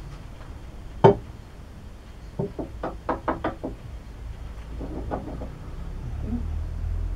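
Metal lathe parts being handled during reassembly: one sharp knock about a second in, then a quick run of about eight lighter knocks, and a few fainter ones later.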